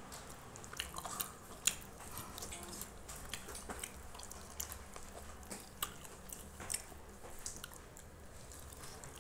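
A person biting and chewing a piece of fried chicken, with irregular sharp crunching and chewing clicks.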